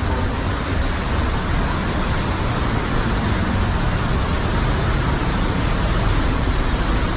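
Cave waterfall running heavy after days of rain, a loud, steady rush of falling water with a deep rumble and no let-up.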